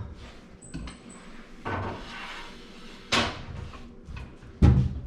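A few sharp knocks and clatters against a microwave's interior or door, with a short stretch of rag rubbing between them, while the microwave is wiped out. The loudest knocks come about three seconds in and near the end.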